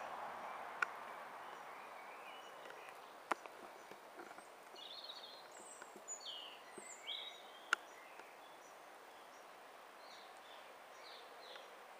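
Faint outdoor ambience: steady hiss with small birds chirping in short scattered calls in the middle and again near the end, and three sharp clicks.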